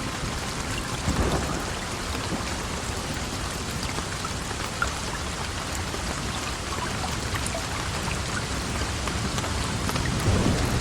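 Heavy rain falling steadily. Low rumbles of distant thunder swell about a second in and again near the end.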